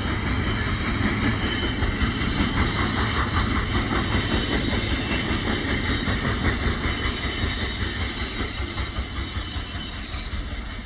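Cars of a Norfolk Southern freight train rolling past, wheels clattering on the rails, with a faint high squeal; the sound fades over the last few seconds as the train draws away.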